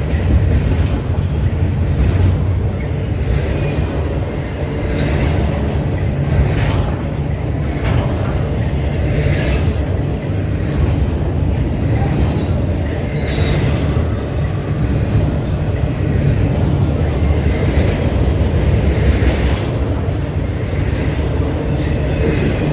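A train rolling past close by: steady, loud low rumble of wheels on the rails, with brief metallic clanks and squeaks every couple of seconds.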